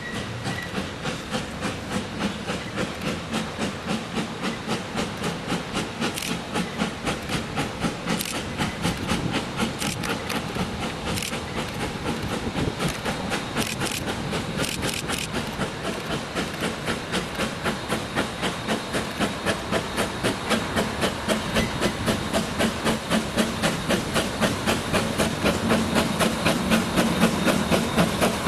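Corpet-Louvet 0-4-0 tank steam locomotive working, its exhaust beating in a steady, even rhythm that grows louder toward the end as it approaches.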